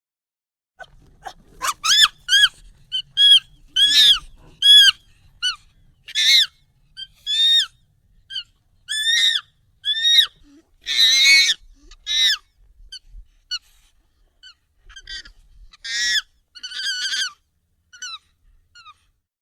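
Monkey calls sped up and pitched up: a string of short, high, arching calls, roughly one or two a second, with a longer harsh screech about eleven seconds in and sparser calls near the end.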